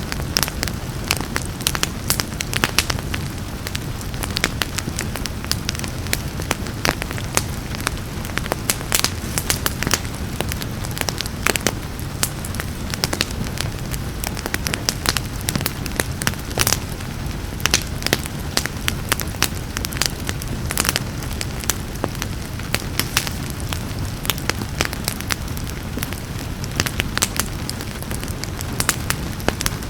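Wood fire crackling with frequent irregular sharp pops and snaps over a steady low rumble of burning, with rain falling as a soft hiss beneath.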